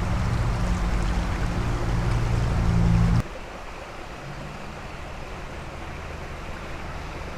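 Fast-running creek water rushing steadily, the stream swollen after rain. The rumble drops suddenly to a quieter level about three seconds in.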